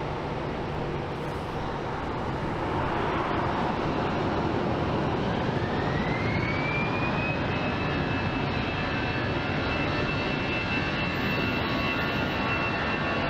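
Jet airliner engines at takeoff power: a steady rush that grows a little louder, with a whine that rises about five seconds in and then holds steady.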